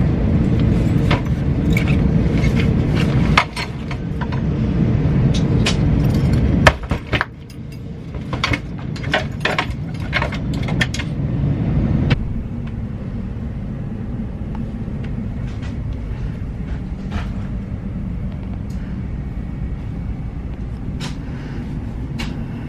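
Low rumble of a running vehicle, broken by sudden cuts, with a spell of sharp clicks and rattles in the middle before a steadier, quieter rumble.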